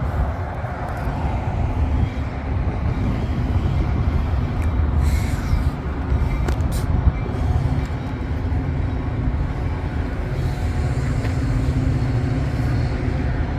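Train running with a steady low rumble, and a short hiss about five seconds in.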